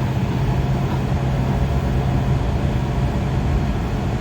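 Steady running noise inside a Kawasaki 7000-series Metrorail car in motion: wheels on the rails with a steady low hum.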